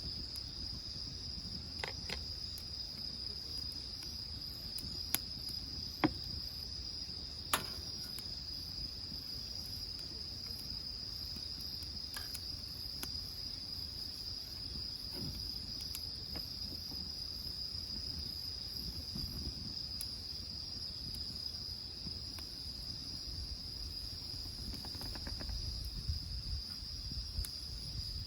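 Insects chirring in a steady high drone, over a wood fire in a wood-burning grill that gives a few sharp crackles and pops, most of them in the first several seconds.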